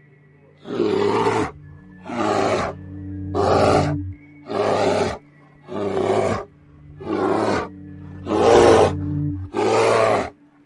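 A large animal roaring in eight loud, evenly spaced bursts, each under a second, over a steady background music drone.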